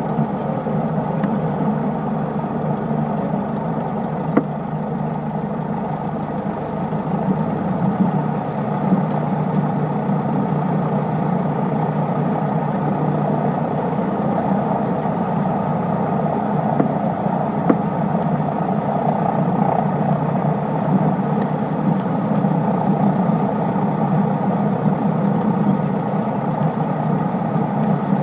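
Cessna 152's four-cylinder Lycoming engine and propeller running steadily, as heard inside the cockpit, an even drone with a couple of faint clicks.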